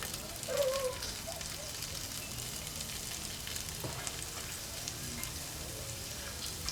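Fried potatoes and onion sizzling in a hot pan, a steady crackle of fine pops. A brief pitched sound stands out about half a second in.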